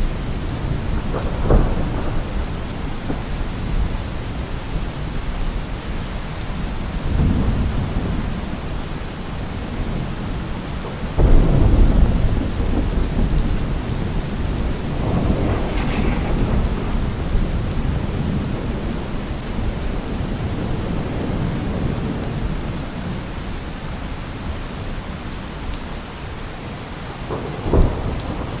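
Steady heavy rain with rolling thunder: sharp cracks about a second and a half in and near the end, and a loud deep rumble about eleven seconds in that rolls on for several seconds.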